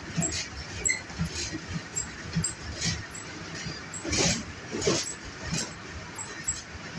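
Passenger train coach running, heard from inside: a steady rumble of running noise with irregular knocks and rattles, and two louder clunks about four and five seconds in.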